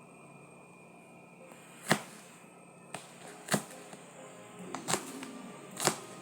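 Four sharp knocks or clicks about a second to a second and a half apart, with a fainter one between the first two.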